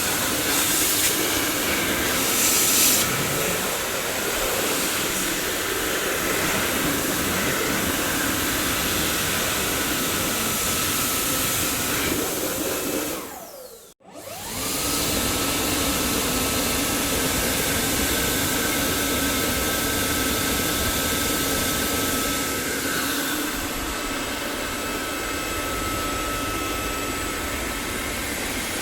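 Dyson vacuum cleaner motor running with a steady rushing noise and a faint high whine. About halfway through, the pitch slides down and the sound cuts out for a moment, then it spins back up with a rising whine and runs steadily again.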